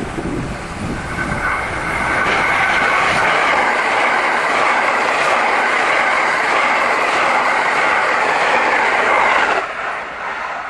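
JR West 683 series electric limited express train passing at speed: a steady rush of wheel and running noise with a few rail-joint clicks, which drops away suddenly about nine and a half seconds in as the end of the train goes by, then fades.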